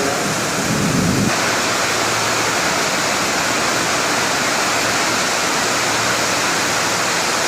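Heavy rain pouring steadily in a rainstorm, with a lower rumble underneath that cuts off suddenly about a second in.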